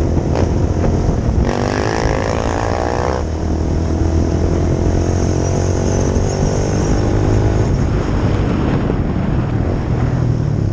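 A 2004 Honda CRF450R's single-cylinder four-stroke engine running steadily, with a brief higher-pitched stretch about a second and a half in and a slowly falling tone after it.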